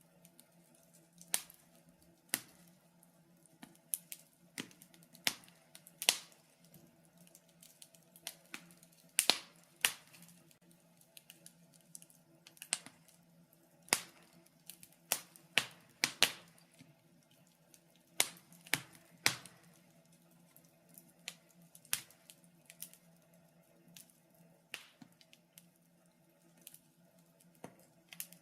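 Wood fire crackling in a fireplace: irregular sharp pops and snaps, a few every couple of seconds, some much louder than others, over a faint steady hum.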